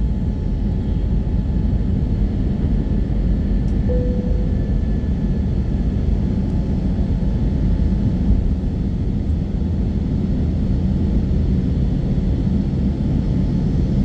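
Steady low rumble and rushing air inside the cabin of an Airbus A320neo in flight, its Pratt & Whitney PW1100G geared turbofans running. A short tone sounds once about four seconds in.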